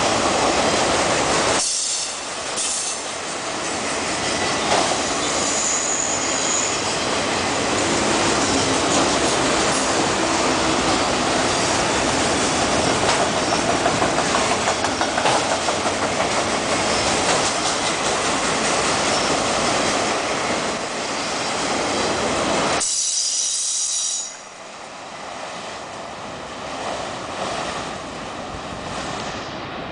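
Autorack freight cars rolling past on the rails: a steady, loud rumble and rattle of wheels and car bodies, with a brief high-pitched wheel squeal about six seconds in. About 24 seconds in, the last car passes and the sound drops away sharply to a much quieter rush.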